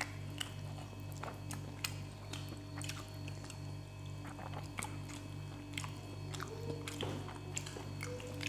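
Close-up eating sounds of rice and fish curry eaten by hand: frequent short clicks and smacks of chewing, over a steady low hum.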